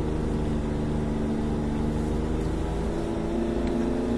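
Snowmobile engine running steadily under way through snow, with a slight shift in pitch late on.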